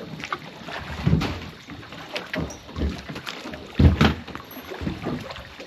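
Irregular thumps and knocks against a small aluminium boat as a crab pot is hauled aboard. The heaviest knocks come about a second in and about four seconds in.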